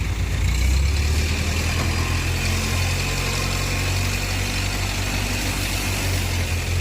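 Heavy diesel engine running steadily at a low, even speed, its hum strengthening slightly about half a second in.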